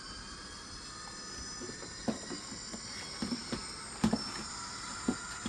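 Model train moving along the layout track: a faint steady high whine under irregular clicks and clacks of wheels and couplers.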